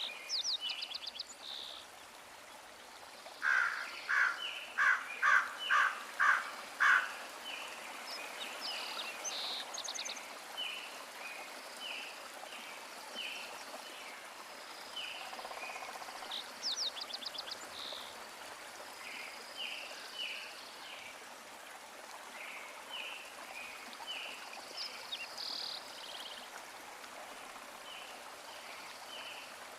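Birds chirping and calling over a steady hiss, with a loud run of seven repeated calls a few seconds in and short chirps throughout.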